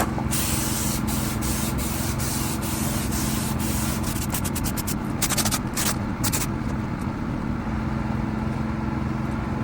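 Paint spray gun hissing in a run of passes as it lays down the final coat of silver base coat, ending in a few short bursts about two-thirds of the way in. A steady low machine hum runs underneath.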